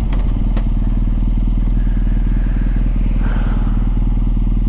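BMW R NineT's air/oil-cooled boxer twin idling steadily with an even, low pulse, after coming off the throttle.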